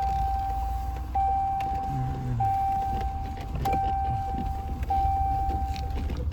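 Pickup truck's in-cab warning chime: a steady mid-pitched tone repeating five times, each about a second long with only short gaps between. A low engine rumble runs underneath.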